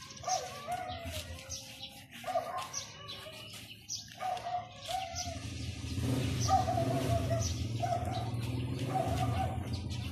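Repeated short calls of a bird, one wavering note about once a second. A low steady hum joins about six seconds in.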